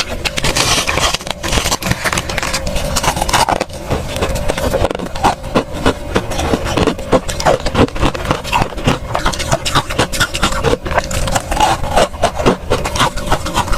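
Crunchy freezer frost being crunched and scraped: a dense, irregular run of crisp crackles and crunches.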